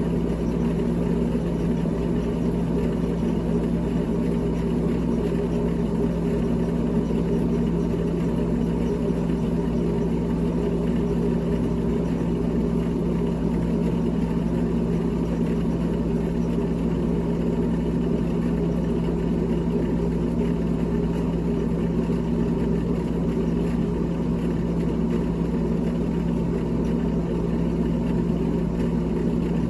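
GE GTH18XCTZRBB refrigerator running with its freezer fan: a steady mechanical hum with a few steady low tones and no change in level.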